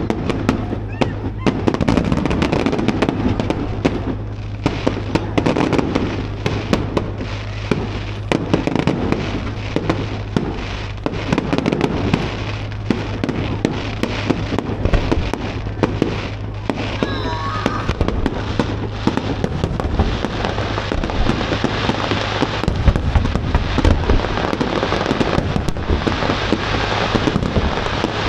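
Fireworks display: a dense, unbroken run of bangs, pops and crackles from aerial shells.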